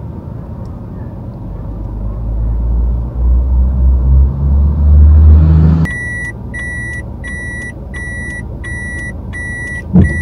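A car's engine rumbling low and building over a few seconds, then settling as the car's electronic warning chime starts beeping steadily, about one high beep every 0.7 seconds.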